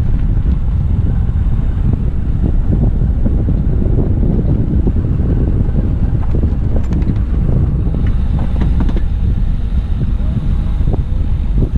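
Tractor engine running steadily with a loud low rumble, mixed with wind buffeting the microphone.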